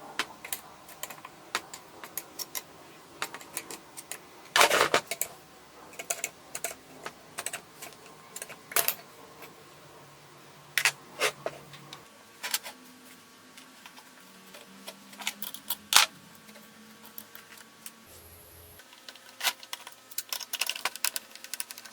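Irregular metallic clicks and clinks of small metal parts and hand tools being handled during work on an old circular saw, with a louder clatter about five seconds in.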